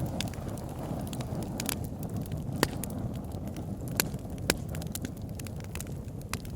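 Fire burning in a fireplace: a steady low rush of flames with scattered sharp crackles and pops, the loudest about two and a half, four and four and a half seconds in.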